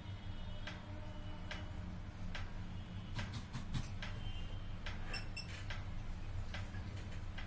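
Regular ticking, a tick a little under once a second, over a steady low hum, with a short run of quicker clicks and a few brief high beeps around the middle.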